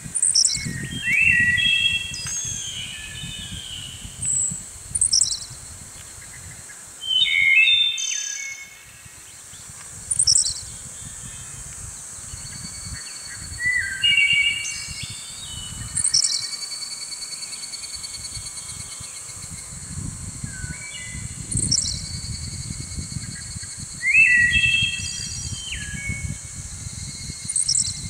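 Birds chirping and calling in short whistled phrases and quick sweeps every few seconds over a steady high-pitched buzz, with a low background rumble underneath.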